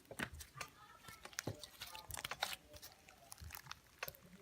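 Homemade slime being stretched and squished by hand, with faint, irregular sticky clicks and crackles.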